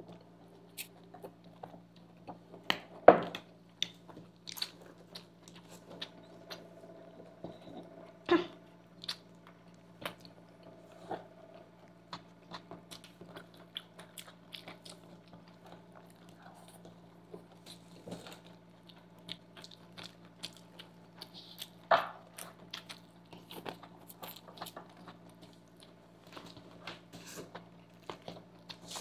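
Close-miked chewing and biting of chowmein noodles by two people, with many small scattered clicks and three louder knocks, over a low steady hum.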